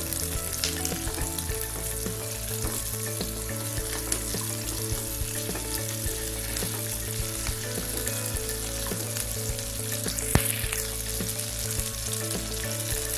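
Shallots, garlic cloves and dried red chillies sizzling in hot oil in a nonstick kadai, being sautéed until soft and stirred with a spatula that taps the pan now and then. The sizzle stays steady, with the sharpest tap about ten seconds in.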